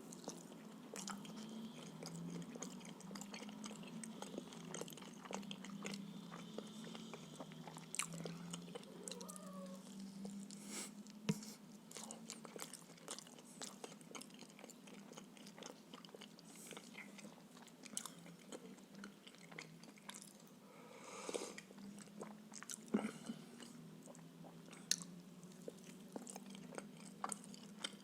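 Close-up chewing and biting of stuffed blini, with many small wet mouth clicks.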